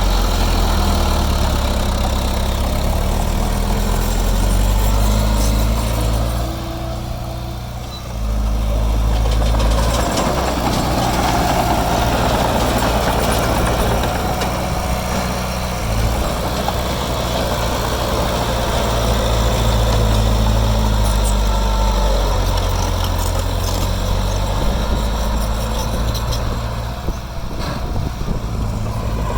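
Heavy diesel engine of earthmoving machinery running steadily. It eases off briefly about seven seconds in, then picks up again.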